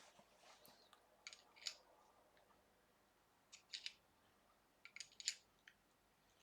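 Light clicks and taps of small pen-kit parts being handled and pushed together by hand, in three brief clusters.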